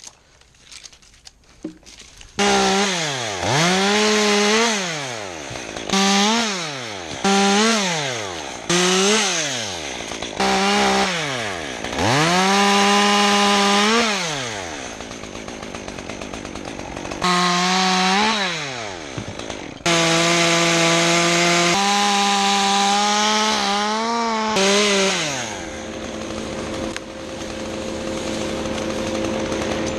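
Gasoline chainsaw catching a couple of seconds in, then revved hard in repeated short throttle bursts, each falling away as the throttle is released. It holds at high speed for a few seconds at a time before settling to a lower, steadier running speed near the end.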